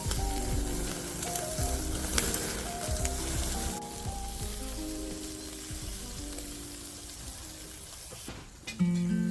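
Food sizzling and crackling on a charcoal grill, over background music. The sizzle grows fainter after about four seconds, and a strummed guitar tune comes in near the end.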